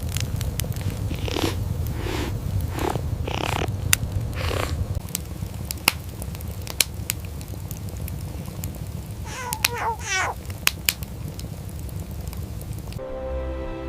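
A cat purring steadily under sharp crackling clicks like a wood fire, with about five breathy rasps in the first few seconds and one short meow about nine and a half seconds in. Soft music starts just before the end.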